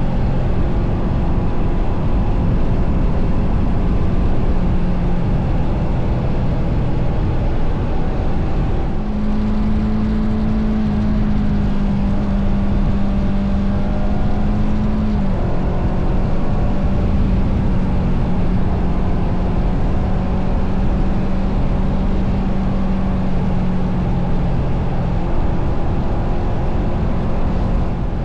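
Honda CBR500R's parallel-twin engine running at a steady pace under a heavy low rumble of wind on the action camera. The engine note rises in pitch about a third of the way in, drops back about halfway through, and shifts again near the end.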